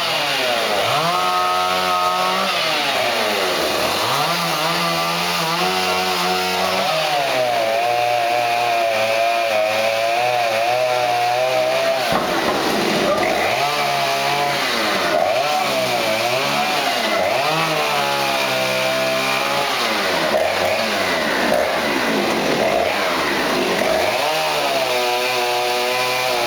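Chainsaw engine revving up and dropping back over and over, its pitch rising and falling every few seconds as it cuts through wood.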